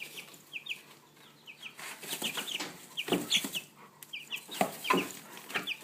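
Chickens clucking in short, scattered high calls, with rustling and scuffing now and then as they scratch about in fresh hay.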